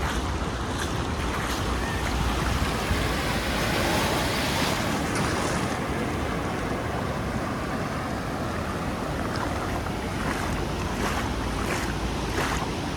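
Surf on a sandy beach: waves breaking and washing up the shore, one wash swelling and fading a couple of seconds in, with wind buffeting the microphone.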